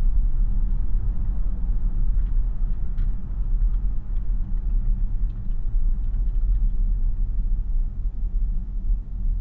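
Steady low road rumble inside the cabin of a 2026 Tesla Model Y AWD while driving, mostly tyre and road noise since the electric drivetrain makes little sound, with a few faint small ticks and clicks a couple of seconds in.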